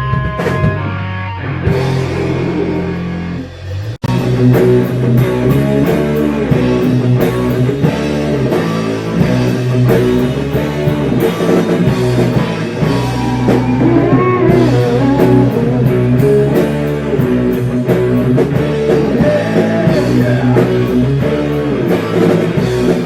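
Heavy metal band playing: electric guitar, bass and drum kit, with held chords that stop abruptly about four seconds in before the full band comes back in with a steady drum beat.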